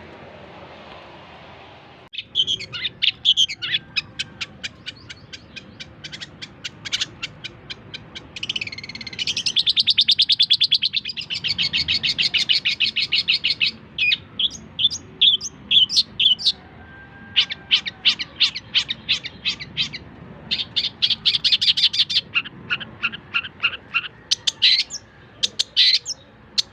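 Long-tailed shrike (cendet) singing a varied, continuous song of rapid chattering note series and fast trills. It starts about two seconds in, with the longest, loudest trill near the middle.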